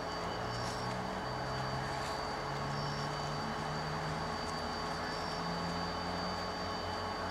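Diesel locomotives, a GM GT22 and a Toshiba unit, running light with a steady low engine drone whose note shifts slightly up and down.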